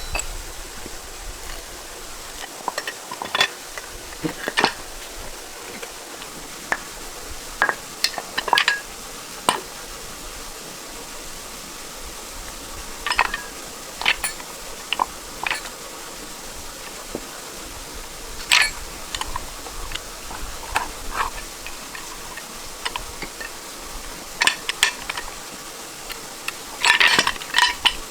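Metal hand tools and tractor parts clinking and knocking now and then during disassembly: separate sharp metallic taps at irregular intervals, with a quick cluster near the end.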